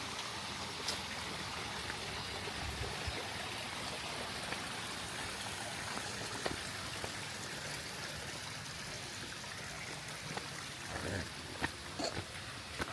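Steady rushing of running water from a stream, with a few faint short knocks near the end.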